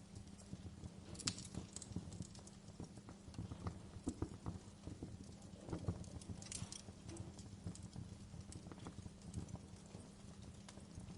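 Wood fire crackling in a fireplace: a steady low rumble with irregular small crackles and a few sharper pops, the loudest about a second in and again after about six seconds.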